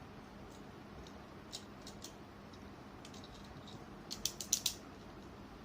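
Small plastic Beyblade parts clicking as the armor is fitted onto the layer. There are a few scattered light clicks, then a quick run of about five sharper clicks near the end.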